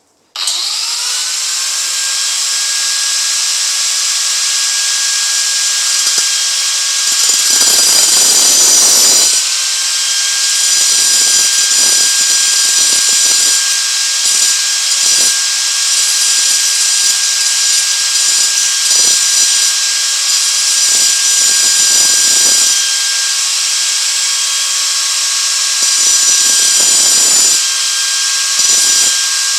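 A high-speed power cutting tool runs with a steady high whine while cutting down metal bolts held in a vise. The hiss of the wheel on the metal comes and goes in repeated spells as it bites and lets off.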